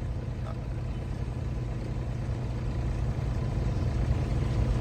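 Semi truck's diesel engine running, heard from inside the cab as a steady low rumble that grows slightly louder toward the end.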